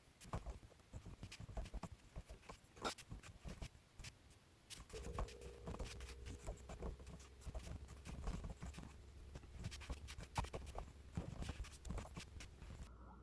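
Faint, irregular clicking and tapping of keys, several strokes a second with short pauses: typing on a computer keyboard.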